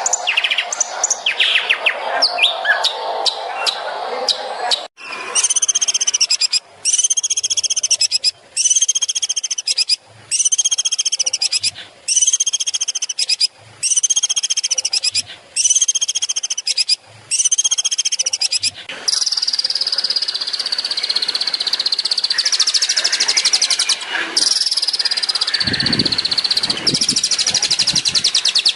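Long-tailed shrike (cendet) singing. It opens with a dense jumble of varied notes, then repeats one arched, high phrase about every 1.7 seconds, eight times. From about 19 seconds in it runs into a continuous fast, high trill.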